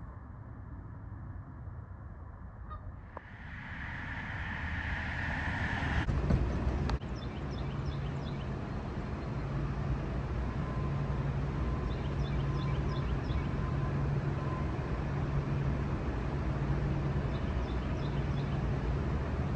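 A small bird chirping in quick short series, several times, over a steady low rumble.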